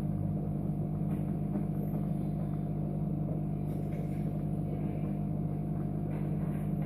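Steady low electrical hum from a Chauvet Hurricane 650 fog machine that is not heating up.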